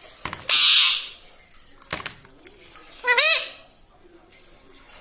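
Pet ring-necked parrot screeching twice: a harsh screech about half a second in, then a quick run of rising-and-falling squawks about three seconds in, with a few sharp clicks between.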